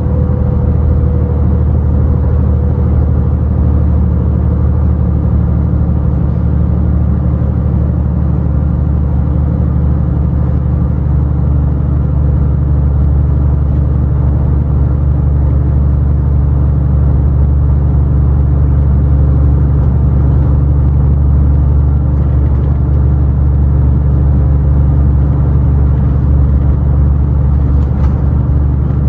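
Scania truck's engine and drivetrain droning steadily on the road, a low hum that holds even with no change in pitch.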